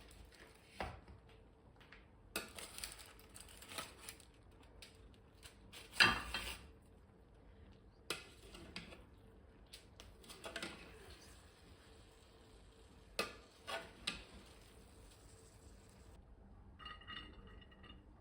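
Dishes and cutlery being handled: scattered clinks and knocks of crockery and utensils, the loudest about six seconds in and two more in quick succession later, between stretches of light scraping.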